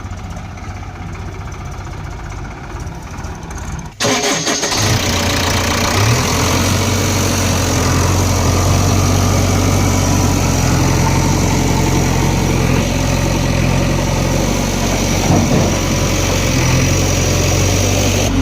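Heavy diesel engine of earthmoving machinery running steadily. About four seconds in it suddenly becomes much louder and stays loud and even.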